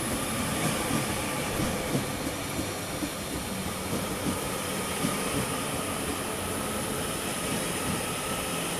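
Class 331 electric multiple unit pulling into a station platform: a steady running and wheel-on-rail noise, with a low rumble and a faint steady whine.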